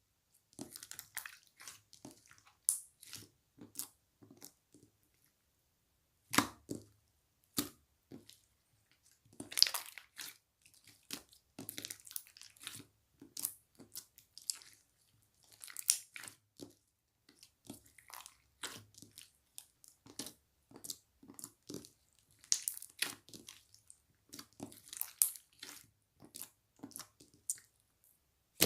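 Slime being squeezed, poked and pressed by hand, making irregular sharp pops, crackles and squishes.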